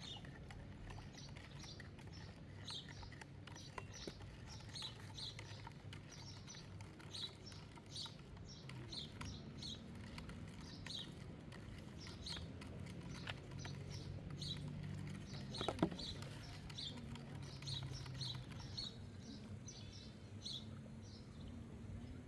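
Small birds chirping, short high calls repeating throughout, over a low steady background rumble. A single sharp knock sounds about sixteen seconds in.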